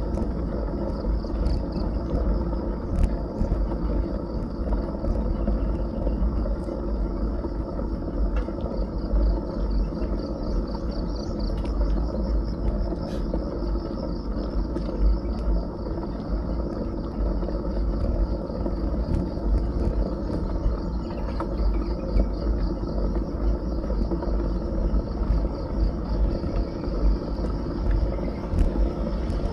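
Riding noise from a bicycle: wind rumbling on an action camera's microphone and tyres on a rough road, steady throughout. Insects chirr in a continuous high pulsing band behind it, with occasional light clicks and rattles.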